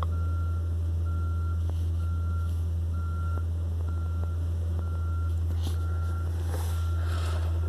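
Vehicle reversing alarm beeping about once a second, each beep short and at one steady pitch, over a steady low engine drone.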